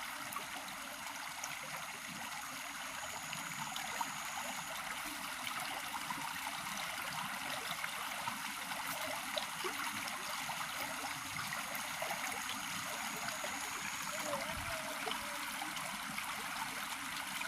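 Steady rush of flowing river water. A faint thin high tone comes in twice for a few seconds.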